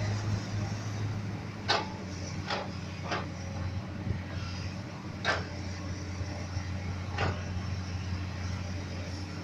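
Komatsu PC200 hydraulic excavator's diesel engine running steadily while it digs, with five sharp knocks from the working bucket spread through the clip.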